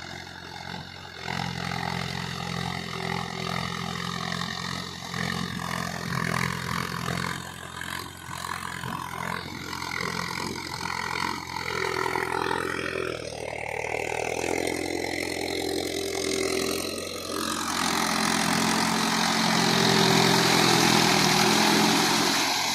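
Mahindra Yuvo 415 tractor's diesel engine running steadily under load. A louder hissing rush joins over the last few seconds.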